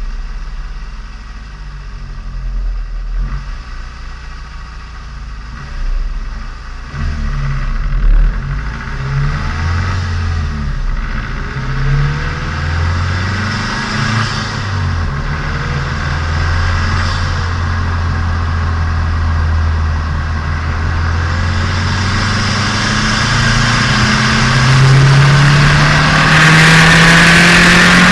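Turbocharged Nissan Micra engine and exhaust heard onboard while driving, with the engine in its break-in period. The revs rise and fall at first, then climb steadily under acceleration through the last several seconds, getting louder toward the end.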